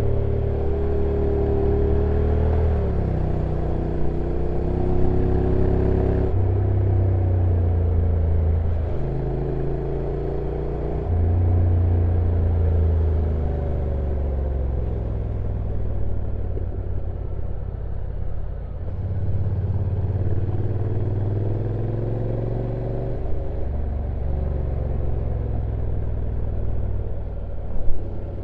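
Honda NC750X parallel-twin engine running under way downhill, its note stepping up and down every few seconds. A brief louder knock comes near the end.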